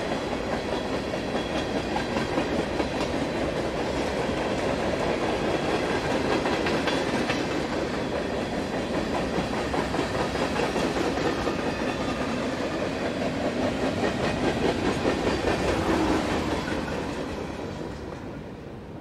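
Norfolk Southern freight train's cars rolling past, steel wheels clicking over the rail joints in a steady clickety-clack, fading away over the last few seconds.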